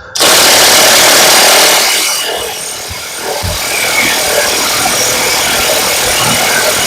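Milwaukee impact wrench hammering continuously on a tight bolt of the front wheel hub. It is loudest for about the first two seconds, then runs on a little lower.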